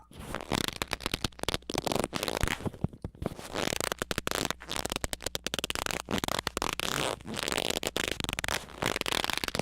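A rapid, irregular stream of short sputtering, crackling noise bursts that start and stop abruptly, distorted and chopped up.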